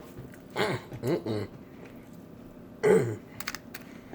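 Three short vocal sounds from a man, with a few faint clicks just after the third.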